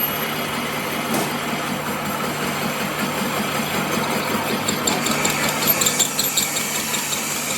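A machine running steadily with a constant hum, joined about five seconds in by a quick regular ticking of about four strokes a second.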